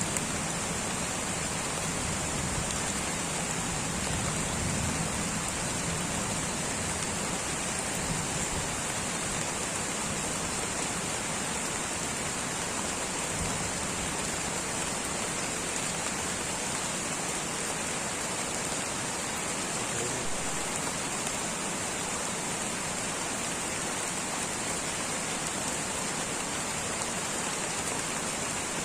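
Light rain falling steadily, an even hiss of drops with no let-up.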